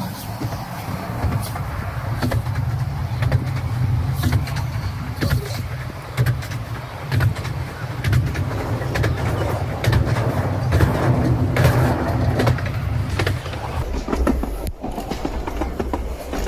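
Narrow-gauge passenger carriages running past on the adjacent loop track: a steady rumble with many sharp wheel clacks over the rail joints. About 14 seconds in, the rumble drops to a deeper tone as the last carriage passes.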